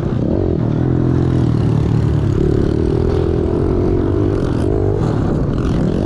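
Small single-cylinder four-stroke pit bike engine being ridden, its revs rising and falling with the throttle.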